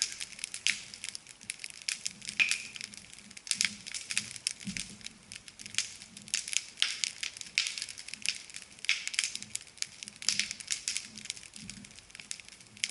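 Small campfire of bark, twigs and dry grass crackling, with dense irregular sharp pops and snaps.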